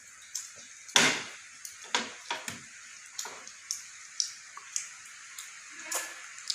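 Wet chewing clicks and lip smacks of a person eating chicken-intestine satay close to the microphone, irregular and about every half second, the loudest about a second in.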